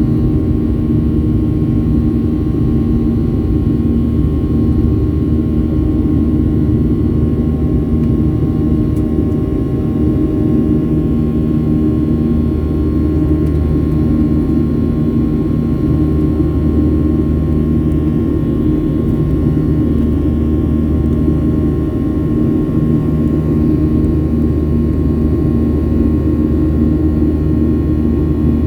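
Boeing 737 jet engines heard inside the cabin: a steady drone with a deep hum and several steady tones, unchanging throughout.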